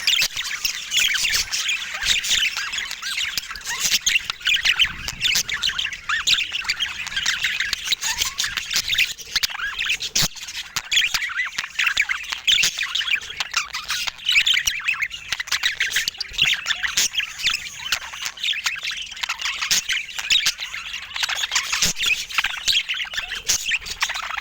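A group of budgerigars chattering, with a steady stream of quick, overlapping chirps, warbles and squawks. There is a single sharp click about ten seconds in.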